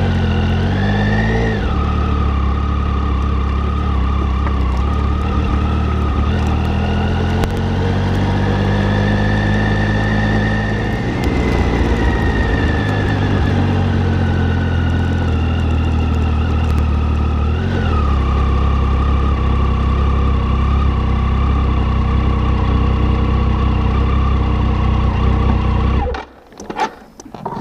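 Triumph Tiger 800's three-cylinder engine running under way, climbing in pitch and dropping back within the first two seconds, then mostly steady with gentle rises and falls. Near the end the sound cuts off suddenly.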